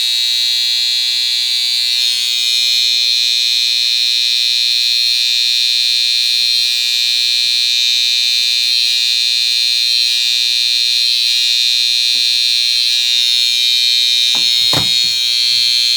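Electric hair trimmer running with a steady, loud, high-pitched buzz, with a brief knock near the end.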